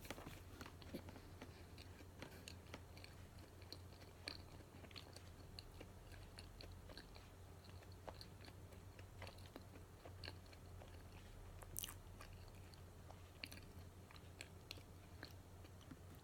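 Someone chewing and biting into a matcha donut close to the microphone: faint, irregular wet mouth clicks and soft chewing, with one sharper click near the end, over a steady low hum.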